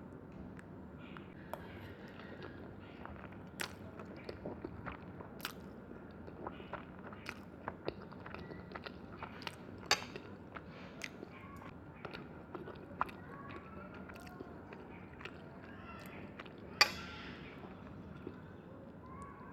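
Close-miked eating: chewing and biting, with many scattered sharp clicks over a soft steady background. The loudest click comes about three seconds before the end.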